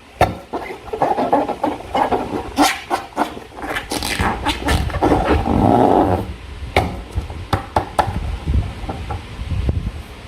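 Slime being worked in and around rubber balloons: irregular squelching and rubbery squeaks broken by many sharp clicks.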